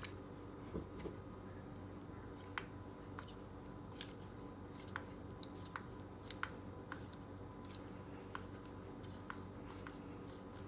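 Light, irregular clicks of a hand tool working screws loose, roughly one every half second to a second, over a faint steady hum.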